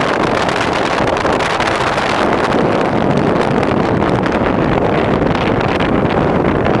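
Wind blowing against the microphone, a loud, steady noise without pauses.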